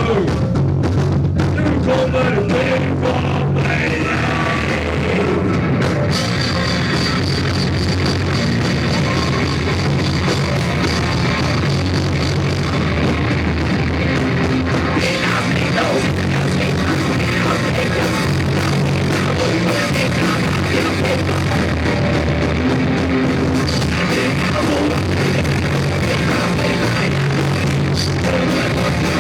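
Punk rock band playing live, loud and dense throughout, in a poor-quality recording. The sound grows fuller about six seconds in.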